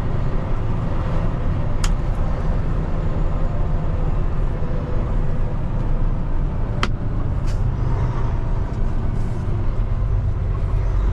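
Peterbilt 589 dump truck's diesel engine running, a steady low rumble heard from inside the cab, with two sharp clicks about two and seven seconds in.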